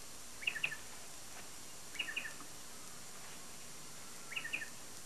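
A bird calling three times, each call a quick cluster of short notes, spaced about two seconds apart, over steady tape hiss.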